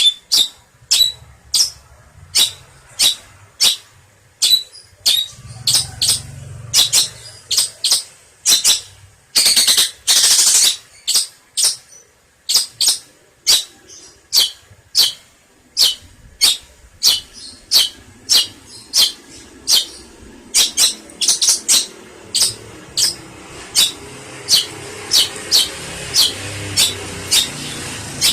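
Long-tailed shrike (pentet, cendet) giving a long series of short, sharp, high calls, about one to two a second, with one harsh, rasping call about ten seconds in. A low rumble builds underneath near the end.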